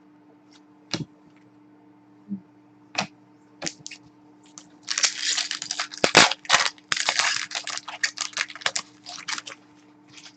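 Hockey trading cards being handled: a few separate clicks and taps, then about four seconds of quick rustling and flicking as the cards slide over one another. A faint steady electrical hum runs underneath.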